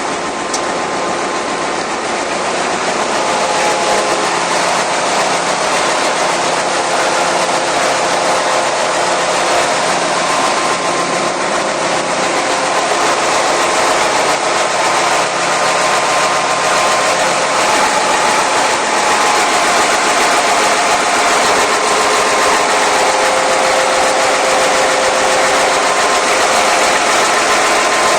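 Diesel engine of SNCF locomotive BB 68540 running loud and steady at high revs, heard close up, swelling a little louder twice along the way.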